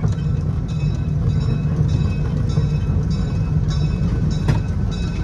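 A train running by close: a steady heavy rumble, with thin high tones coming and going above it and a few sharp clicks.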